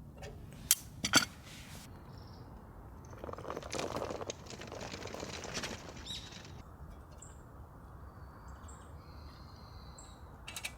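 Three sharp clicks or knocks in the first second or so, a rustle lasting about three seconds in the middle, then faint high bird chirps.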